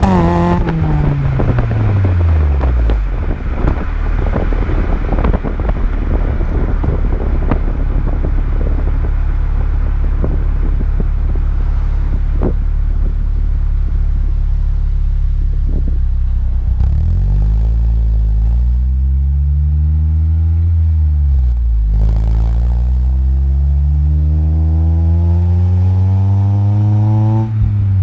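Exhaust of a 2003 Honda Civic Si's 2.0-litre four-cylinder, running with a cat-delete test pipe, shorty headers and a catback with resonators and muffler. The engine note falls away at the start and settles into a low rumble with a rough crackle. From about halfway it revs up and down twice, then climbs steadily, drops suddenly near the end and climbs again.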